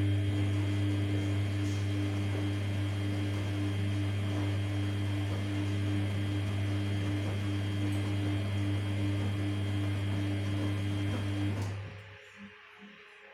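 Samsung P1271 washing machine running mid-wash: a steady low hum with a rushing noise over it, which cuts off about twelve seconds in.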